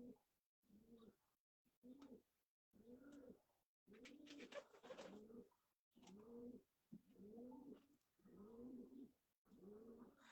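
Pigeons cooing faintly: a steady run of short coos that rise and fall in pitch, about one a second.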